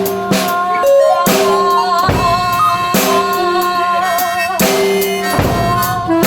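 Live improvised band music: a drum kit with regular bass drum and cymbal hits under held, wavering melodic notes and a low bass line.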